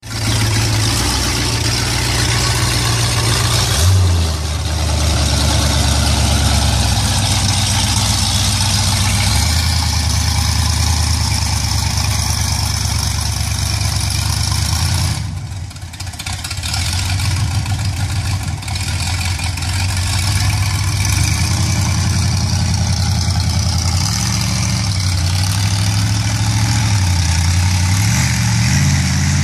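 Engine of a Chevrolet S10 mega truck running as it drives, its pitch stepping up and down with the throttle. The sound dips briefly about halfway through and the engine revs up near the end.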